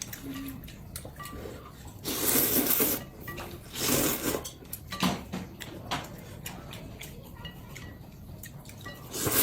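Eating at the table: two loud noisy slurps of noodles about two and four seconds in, with a few light clicks of chopsticks or utensils against a bowl.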